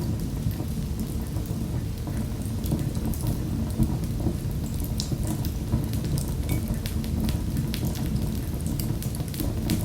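Wood fire crackling in a fireplace: frequent small sharp pops and snaps, scattered irregularly over a steady low rumble of the burning flames.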